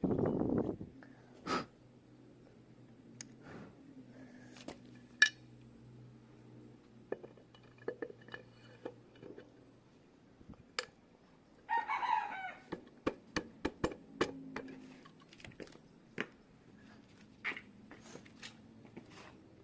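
Scattered sharp clicks and clinks of metal parts and tools being handled during engine assembly, opening with a low thud. A chicken calls once in the background about twelve seconds in.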